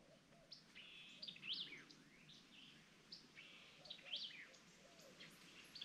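Faint songbird calls: short high chirps and quick rising-and-falling whistled notes, repeated every second or so against a quiet woodland background.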